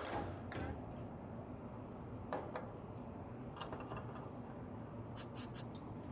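Light clicks and taps of small metal tools and parts being handled during hand work, over a low steady background hum; a quick run of four sharp clicks comes near the end.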